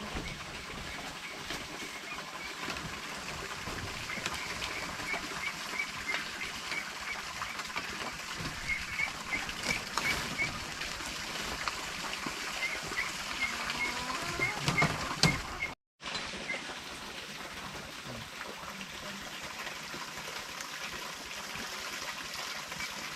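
A bird chirping over outdoor background noise: short high peeps, about two or three a second. The chirping stops at a sudden cut two-thirds of the way through, and only a steady noise remains after it.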